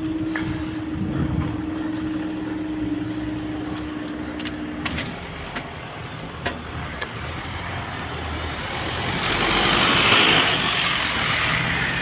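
Traffic at a railway level crossing: a steady hum stops about five seconds in, then a road vehicle passes, its tyre noise building to its loudest near the end and easing off.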